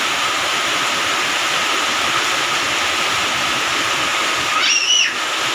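Heavy rain pouring down in a steady hiss. Near the end, a brief high-pitched squeal cuts through it.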